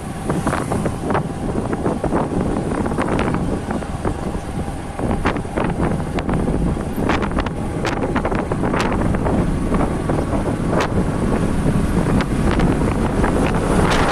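Wind buffeting the microphone on a moving motorcycle, its engine running underneath, with frequent short clicks and knocks throughout.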